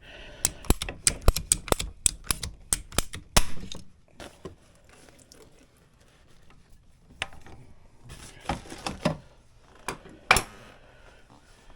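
Hands-on work at a dehumidifier and its ductwork: a quick, irregular run of sharp clicks and rattles for about four seconds, then a few scattered knocks.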